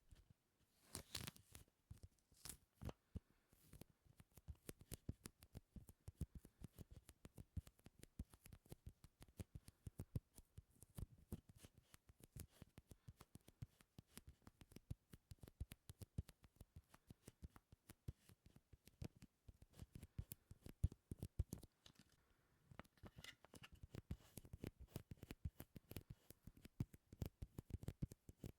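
Close-miked sticky ASMR sounds: a fast, irregular stream of soft clicks and crackles, with a short pause a little past the middle.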